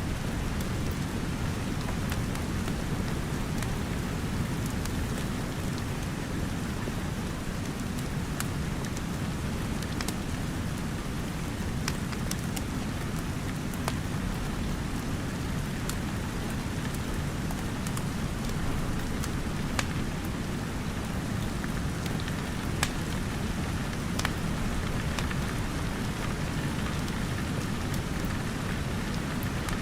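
Steady rain with a low rumble underneath, and scattered sharp crackles and pops from a wood fire, a couple of them louder about two-thirds of the way in.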